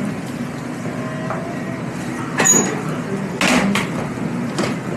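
Steady mechanical hum, engine- or motor-like, with three short noisy bursts in the second half.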